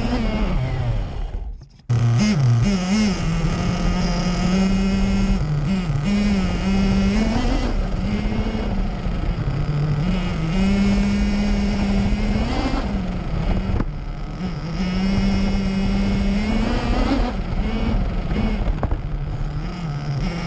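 Nitro RC car's small two-stroke glow engine running hard, heard from a camera mounted on the car, its pitch holding steady then rising and falling with the throttle several times. The sound cuts out briefly near two seconds in.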